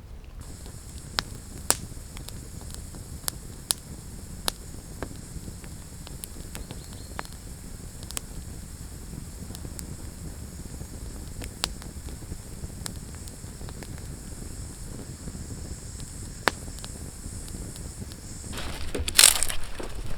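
Wood campfire crackling, with sparse sharp pops over a steady low hiss. A louder rustling crunch comes near the end.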